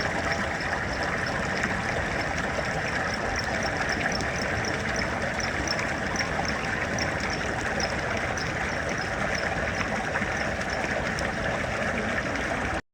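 Steady rush of flowing water, with a high chirp repeating about three times a second through most of it. The sound cuts off suddenly near the end.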